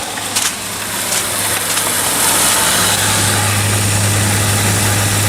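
Arctic Queen WWK05CM71N window air conditioner running on high cool, heard from its outdoor side: the GMCC compressor's steady low hum under the rushing air of the condenser fan, rising over the first couple of seconds and then holding steady. A few sharp clicks near the start. The compressor is running normally.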